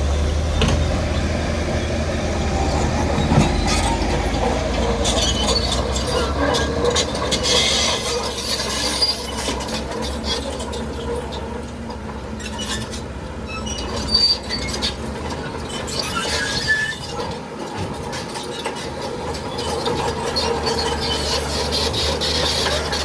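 Crawler bulldozer at work: the diesel engine runs steadily under a haze of noise while the steel tracks clank and squeal, with sharper squeals about fourteen and sixteen seconds in.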